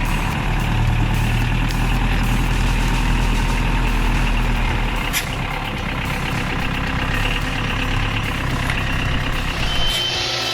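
Unimog 411's diesel engine running steadily, a low engine drone; it drops away near the end.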